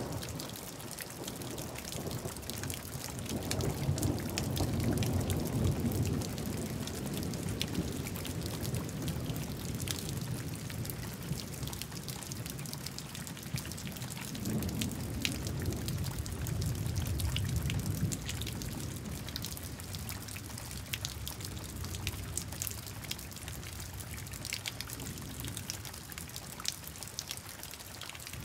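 Recorded storm ambience: steady rain with scattered drop patter, and low rumbling thunder that swells twice, around five seconds in and again around sixteen seconds in.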